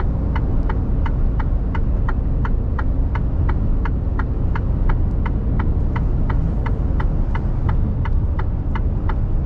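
Turn-signal indicator ticking steadily, about three ticks a second, inside the Mercedes Actros truck's cab, over the low rumble of the diesel engine and road.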